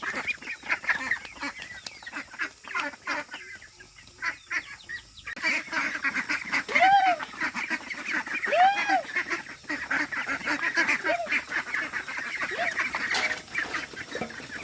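A flock of domestic waterfowl calling together in a dense, overlapping chatter. It dips briefly around a third of the way in. From about six seconds in, louder drawn-out calls that rise and fall in pitch stand out every second or two.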